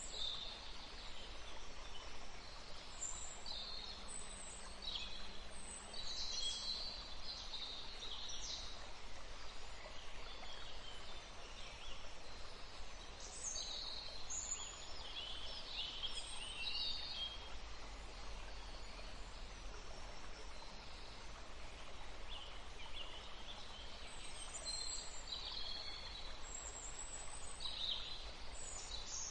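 Forest songbirds calling and singing, many short high chirps and brief phrases coming one after another, over a faint steady rush of breeze.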